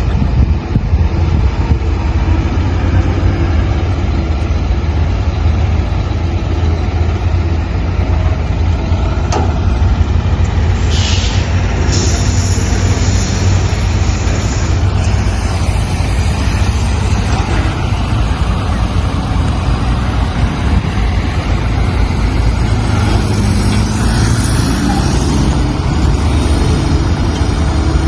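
Diesel truck engine running loud and steady through tall exhaust stacks, with a deep, continuous rumble. About eleven seconds in there is a brief hiss of air, and a longer one follows for a few seconds.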